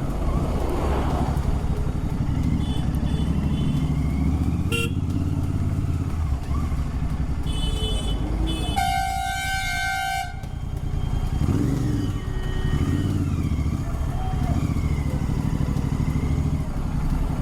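Royal Enfield Continental GT 650 parallel-twin engine, fitted with an RRP aftermarket exhaust, running steadily in traffic. Vehicle horns honk several times: short toots near three and seven seconds in, and a long, loud blast from about nine to ten seconds in.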